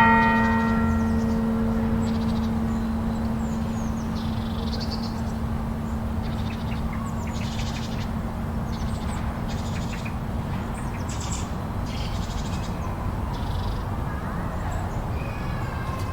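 A bell's ring fades away over the first couple of seconds, over a steady low rush of blizzard wind. Short bird calls come and go through the rest.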